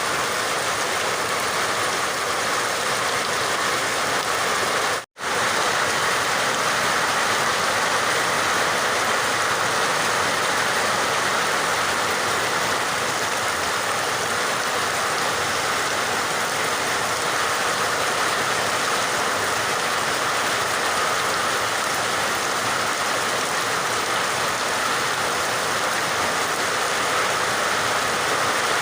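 Steady rain, an even hiss of falling water. It cuts to silence for a split second about five seconds in, then resumes.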